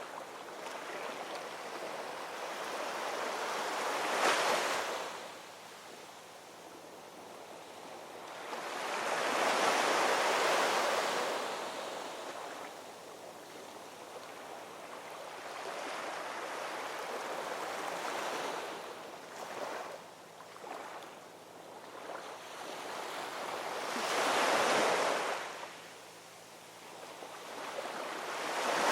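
Ocean waves rolling in and breaking on a shore, the surf swelling and fading in slow surges about every six to eight seconds, with four main peaks.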